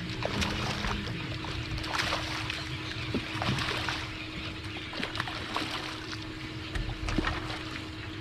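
Water lapping and splashing around a small fishing boat, with many short sharp ticks and a steady low hum throughout.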